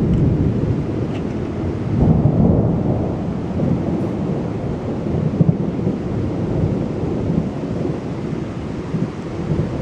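Thunder rumbling on and on, swelling about two seconds in and slowly rolling off, with rain falling.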